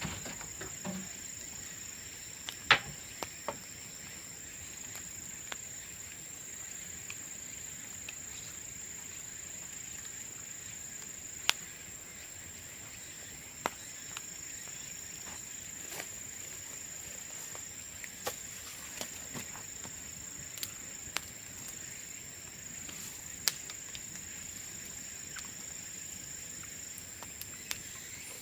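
Bamboo burning in a bonfire, with a dozen or so sharp cracks and pops scattered through; the loudest comes about three seconds in. Under it runs a steady high-pitched insect drone, like crickets.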